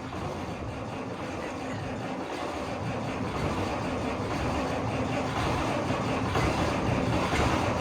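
Starter motor cranking a cold old diesel tractor engine without its intake heater: the engine turns over steadily and grows slowly louder, close to firing but not catching.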